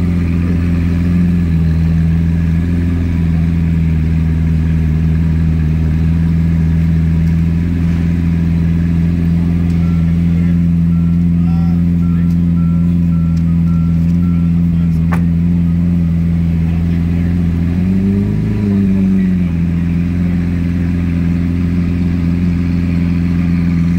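Lamborghini Aventador's V12 engine idling steadily, with a brief rise and fall in engine speed about eighteen seconds in. A faint electronic beeping, about two beeps a second, sounds for several seconds midway.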